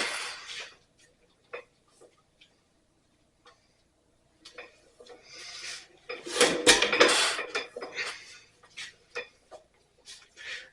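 1927 Ottawa 4-5 HP stationary engine being turned over by hand on its flywheels, its metal parts clanking and rattling in two spells, briefly at the start and again from about six to nine seconds in; the engine does not catch.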